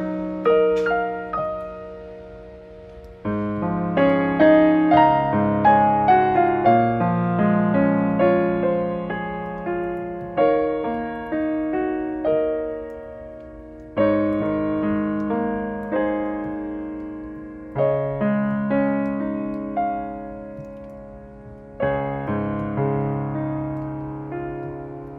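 Slow, gentle solo piano music: chords and melody notes struck and left to fade, with a new chord every few seconds.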